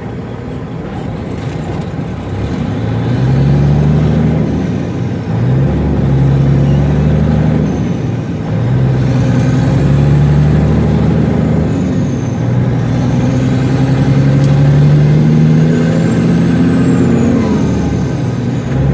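Heavily loaded semi truck's diesel engine pulling hard as it accelerates through the gears: the engine note climbs, then drops back at each upshift, several times over. A faint turbo whistle rises and falls above it.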